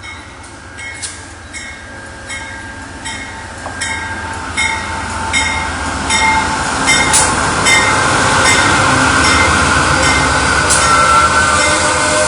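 Shore Line East passenger train led by a GE P40DC diesel locomotive pulling into a station, its rumble growing steadily louder as it comes in. A bell clangs steadily throughout, about three strikes every two seconds.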